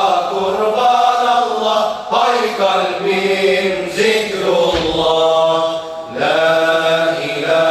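An ilahi group singing a Turkish Islamic devotional hymn together, in long held phrases with short breaks between them.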